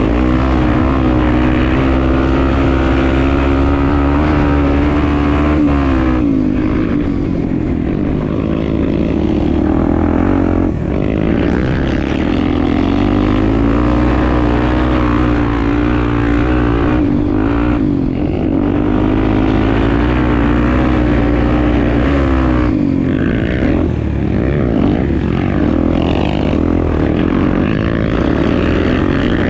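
Honda XR250 Tornado's single-cylinder four-stroke engine running while being ridden. Its pitch holds steady for stretches, falls away twice as the throttle comes off, and picks back up between.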